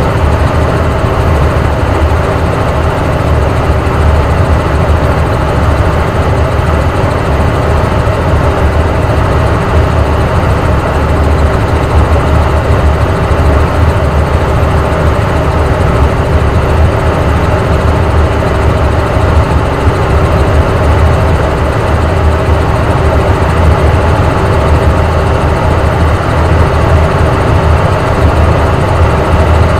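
Helicopter in flight, its rotor and engine noise heard steadily from on board, with a constant low drone and a few steady tones above it.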